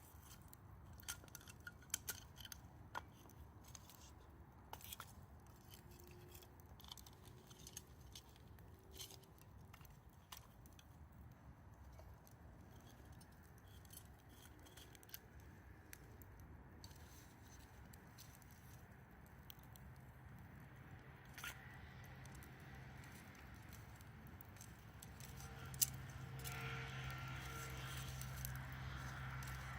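Wood fire crackling quietly, with irregular sharp pops and snaps. A steady low hum joins in during the last third, and there is one louder knock near the end.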